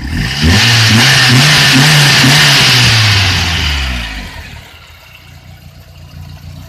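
VAZ-2113 engine revved hard once for about four seconds, then dropping back to a steady idle; it is the engine with the terrible metallic knock.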